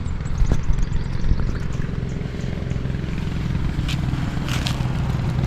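Steady low drone of a motor running without change, sounding like a motorised water pump at work.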